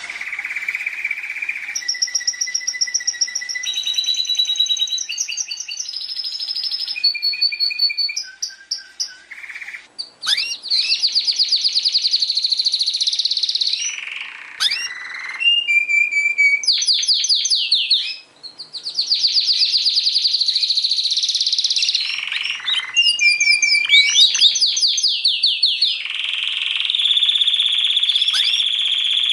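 Domestic canary singing a long, varied song: held whistled notes alternating with fast rolling trills, phrase after phrase, with brief gaps between phrases.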